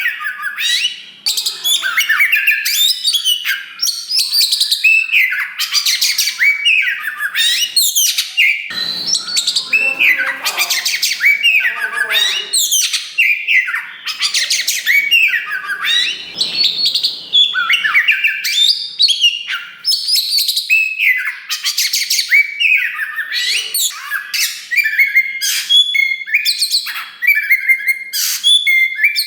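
Oriental magpie-robin (kacer wulung) singing loudly and without a break, a fast run of high whistled and chattering phrases. Rougher, rasping passages come about a third of the way in and again just past the middle.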